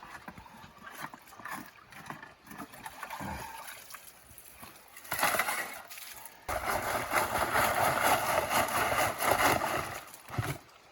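Water splashing and pouring for about three and a half seconds, preceded by scattered small knocks and scrapes.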